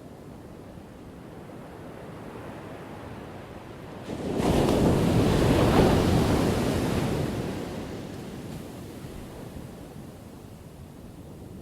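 Ocean waves breaking on a shore: a low steady wash of surf, then one wave crashes about four seconds in, loud for a few seconds before fading back to the wash.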